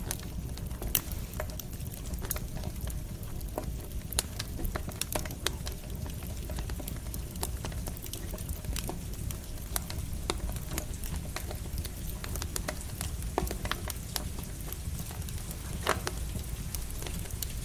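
Campfire crackling, with many sharp irregular pops and snaps, over a steady low rumble and the patter of light rain.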